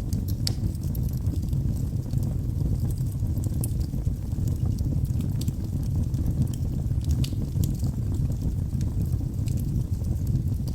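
Log fire burning in a fireplace: a steady low rumble of flames with frequent small, sharp crackles and pops scattered throughout.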